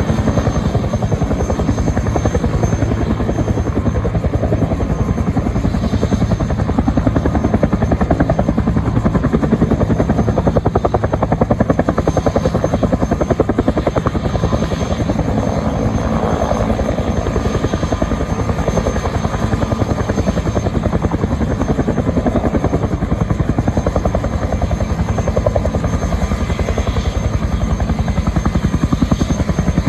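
Military helicopter running close by, the rapid, steady beat of its rotor blades loud and unbroken.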